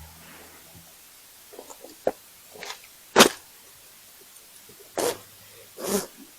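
Gear being handled in a truck canopy: a handful of separate knocks and clunks, the loudest about three seconds in, after a low hum that fades out within the first second.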